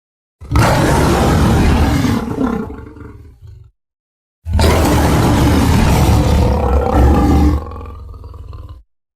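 Two designed dinosaur roars, an Acrocanthosaurus sound effect. They are deep and rumbling and separated by a moment of silence. The first dies away over its last second or so, and the second is longer and ends in a quieter, growling tail.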